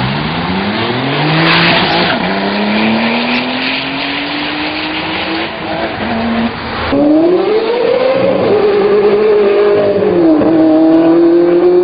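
High-performance car engine accelerating hard, its pitch climbing with a shift about two seconds in. About seven seconds in it cuts abruptly to another engine revving up, dropping back and climbing again.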